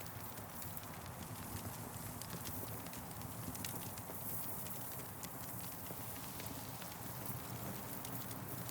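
Campfire burning, with irregular sharp crackles and pops from the wood over a steady low rumble.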